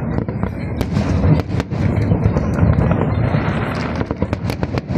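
Fireworks display: a rapid, irregular series of sharp bangs and crackles over a steady low rumble.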